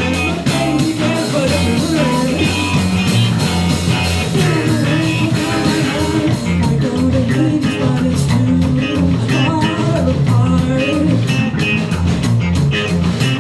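Live rock band playing a song: electric guitar, bass and drums, with a voice singing over a steady beat.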